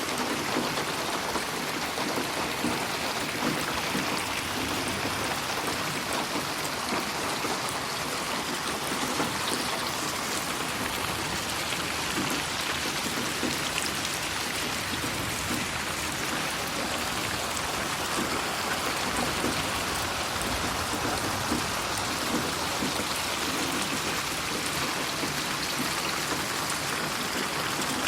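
Steady rain falling, a dense even hiss with many fine drops pattering on surfaces, panned around the listener in 8D audio.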